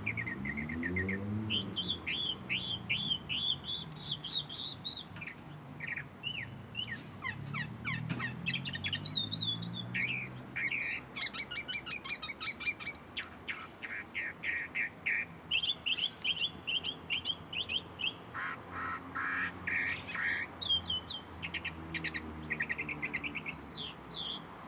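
Many birds chirping and calling at once, quick high overlapping calls throughout, with a lower pitched call or hum underneath now and then, near the start, in the middle and near the end.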